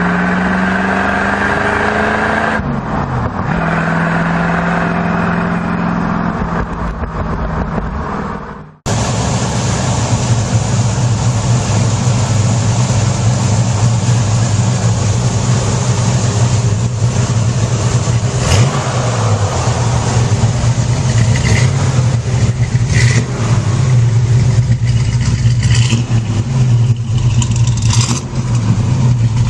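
Muscle car engines running loud: the first revs with its pitch rising and falling, then the sound cuts out for an instant about nine seconds in, and another engine runs with a steady low rumble and scattered sharp pops.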